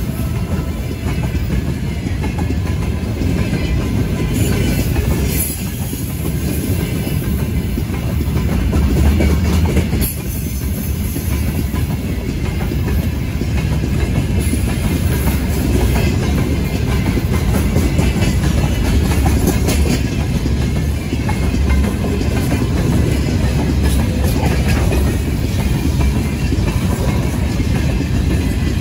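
A train running past on the line: a loud, steady rumble with wheels clattering on the rails.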